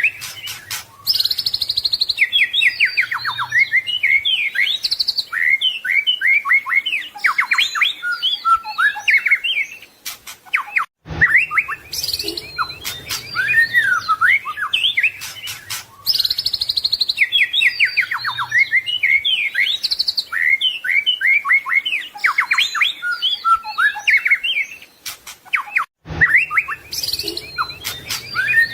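White-rumped shama (murai batu) singing a rapid, varied song of whistles, trills and chirps with fast rising and falling notes. The same stretch of song repeats after brief breaks about 11 s and 26 s in, as a looped recording.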